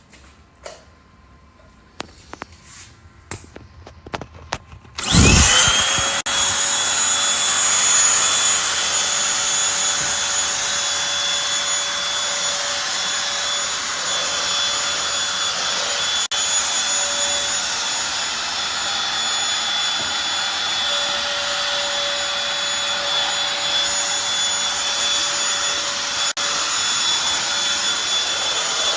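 Eureka Blaze stick vacuum cleaner: a few clicks and knocks of handling, then about five seconds in its motor switches on, spins up quickly and runs steadily with a high whine.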